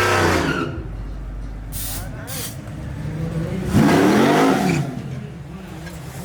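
Vehicle engine revving: a rev falling away at the start, then one rev up and back down about four seconds in.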